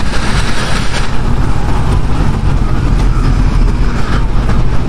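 Honda CB500X motorcycle's parallel-twin engine running while riding in city traffic, under a steady low rumble of wind on the microphone.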